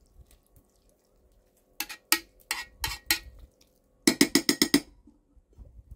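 Cookware clinking: a few separate ringing knocks, then a quick run of about eight taps.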